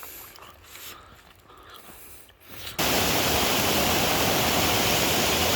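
Faint steps crunching on a rocky trail, then, a little under three seconds in, a sudden switch to a loud, steady rush of water from a fast mountain stream.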